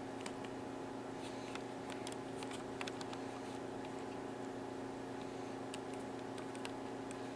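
Steady low hum with several held tones, the kind a running motor or electrical equipment makes, with scattered faint ticks and clicks.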